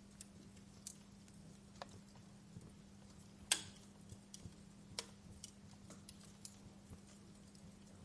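Wood fire crackling in a fireplace: scattered sharp pops and snaps over a low hiss, the loudest pop about three and a half seconds in. A faint steady hum runs underneath.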